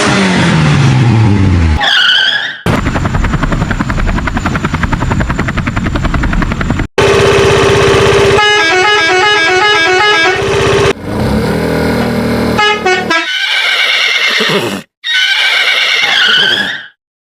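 A rapid string of edited sound effects joined by abrupt cuts: an engine-like pitch falling away, a long steady buzzing motor, a run of patterned beeping tones, then several warbling calls.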